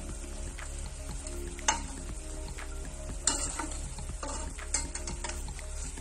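Turkey breast roll sizzling in hot olive oil with chopped onion, garlic and carrot in a stainless steel pot, while a spatula and fork turn it. Twice the utensils knock sharply against the pot, a little under two seconds in and about three seconds in.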